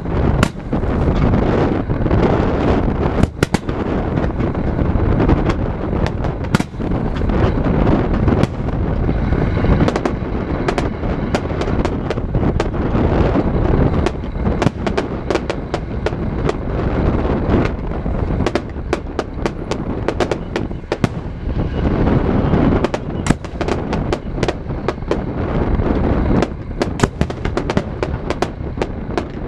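Fireworks display: aerial shells bursting one after another as sharp bangs over a continuous low rumble. The bursts come thickest in the last several seconds.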